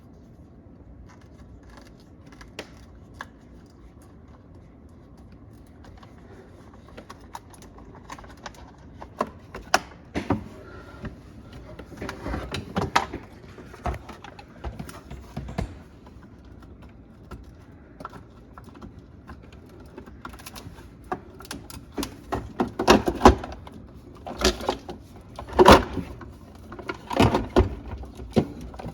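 Irregular clicks, taps and rattles of parts and tools being handled, sparse at first and growing busier and louder in the second half.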